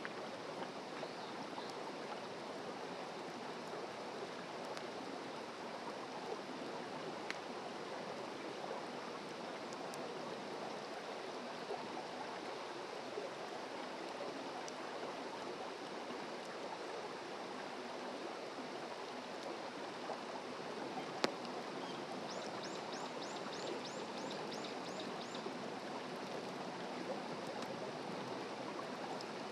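Wood campfire burning: a steady rushing hiss with faint scattered crackles and one sharp pop about two-thirds of the way through. Just after the pop, a quick series of about ten short, high chirps.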